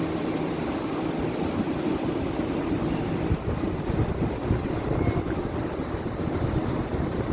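Steady low rumbling noise aboard a large ship under way.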